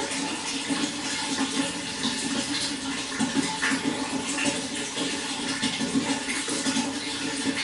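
Running water, flowing steadily with small splashes and gurgles throughout.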